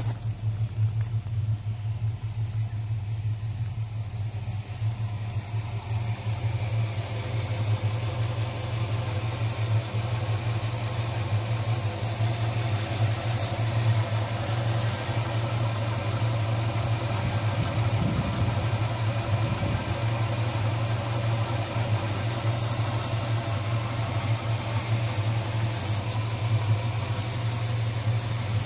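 1965 Ford Mustang's 289 V8 idling steadily, its sound growing fuller after about six seconds.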